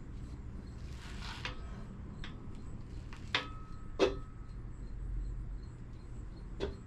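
Several sharp metal clinks and knocks from tools and engine parts as the last piston and connecting rod are worked out of the engine. The two loudest, about three and a half and four seconds in, each leave a brief ringing tone. A low steady hum runs underneath.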